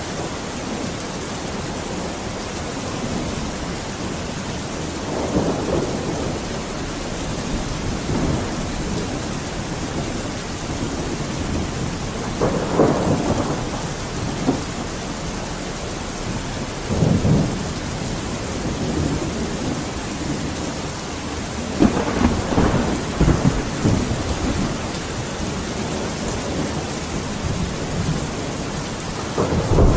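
Steady heavy rain hissing, with rolls of thunder rumbling in and out several times: about five seconds in, around twelve seconds, seventeen, twenty-two to twenty-four seconds, and a louder low rumble starting right at the end.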